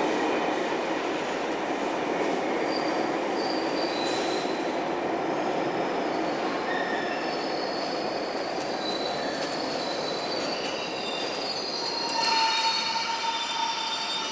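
Sydney commuter train running on the rails, with thin high wheel squeals coming and going. About twelve seconds in a louder, sustained squeal at several pitches sets in.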